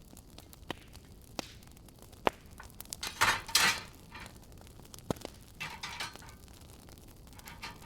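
Wood fire burning in a fireplace: sharp crackles and pops, each on its own, over a faint hiss, with a louder cluster of snapping and hissing a little past the middle.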